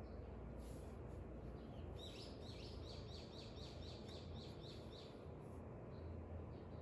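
A songbird singing a faint trill of about a dozen quick, evenly repeated high chirps, about four a second, over a steady low background noise.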